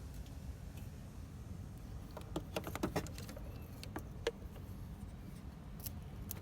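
Several quick, light clicks and rattles, bunched about two seconds in and then a few single ones later, over a steady low rumble.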